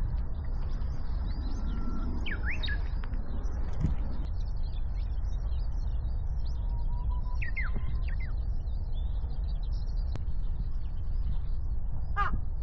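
Small songbirds chirping and calling, with a few clear downward-slurred notes and a quick repeated call near the end, over a steady low rumble.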